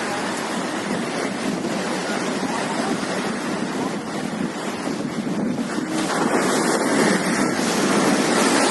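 Steady rush of wind on the microphone over high-tide sea waves, growing louder about six seconds in.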